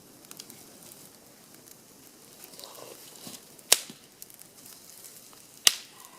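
Small campfire of damp wood crackling softly, with two loud sharp pops about two seconds apart near the middle and end.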